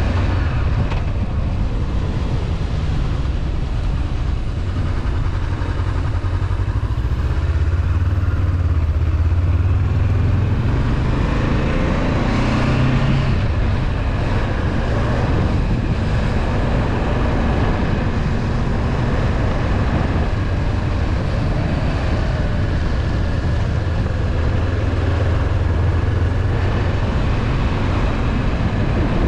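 Honda CB500F's parallel-twin engine running steadily under way, with road noise.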